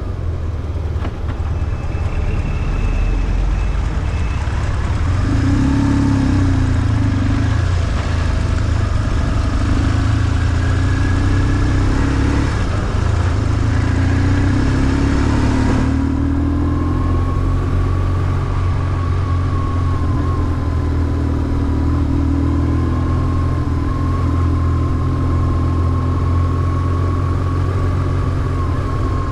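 BMW R1150GS boxer twin engine running on the move, with engine note and road noise at a fairly even level and small rises and falls in pitch. A thin steady whine joins about halfway through.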